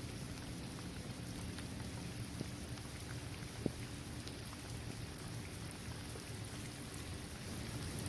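Steady rain falling on a basketball court, trees and grass, an even hiss with scattered individual drop ticks and one sharper drip about three and a half seconds in.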